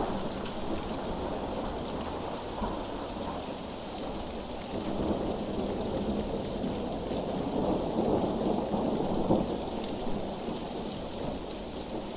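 Steady rain with rolling thunder. The rumble swells from about halfway through and eases off near the end.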